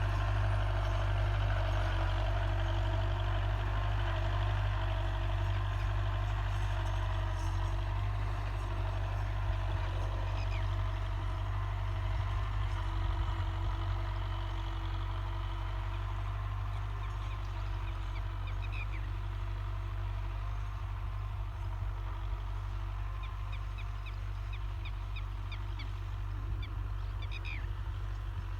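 Tractor engine running steadily with a low rumble. Birds chirp in quick short series over it in the second half.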